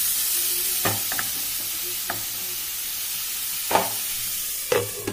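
Chopped tomatoes and onions sizzling in oil in a kadai, with a spatula scraping and knocking against the pan several times as they are stirred.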